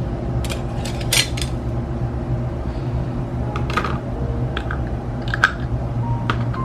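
Kitchen dishes and utensils being handled: a scattered series of light clicks and clinks, some briefly ringing, over a steady low hum.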